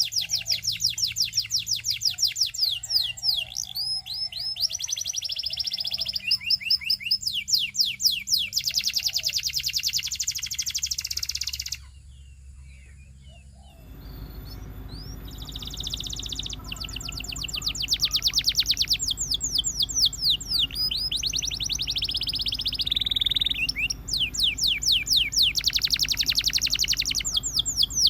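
Canary singing long rolling trills of rapidly repeated notes. The song breaks off for about two seconds near the middle, then resumes over a steady low hum.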